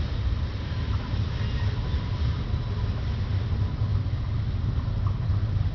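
Steady low rumble of a freight train rolling past, with no horn sounding.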